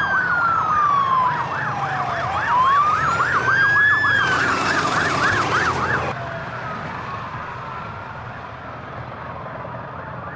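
Police sirens: one wails in slow rising and falling sweeps while another yelps rapidly over it, with a rushing hiss for a couple of seconds. About six seconds in, the yelp stops and the sound drops, leaving a fainter wail.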